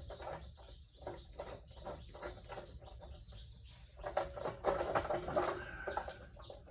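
Scattered light metallic clicks and taps, busier in the second half, as a gear puller and the pulley it has just pulled off a Briggs and Stratton engine's crankshaft are handled.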